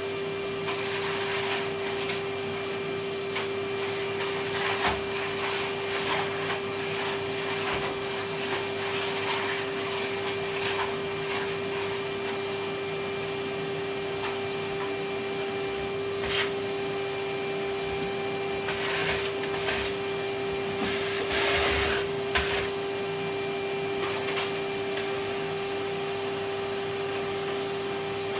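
Vacuum cleaner running steadily with a constant hum and hiss, the nozzle knocking against surfaces now and then, and a few louder rushes of suction about two-thirds of the way through.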